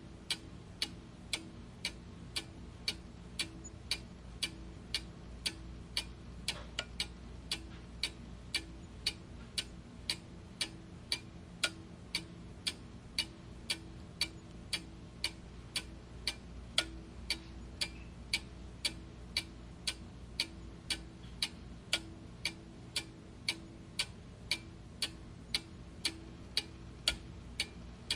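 Clock ticking steadily, about two even ticks a second, over a faint low steady hum.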